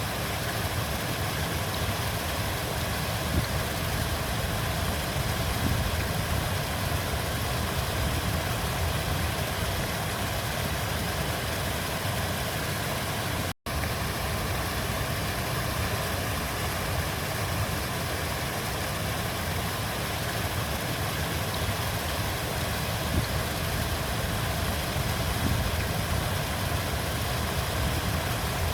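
River water flowing steadily, a continuous low-heavy rush with no change in level. The sound cuts out completely for an instant about thirteen and a half seconds in.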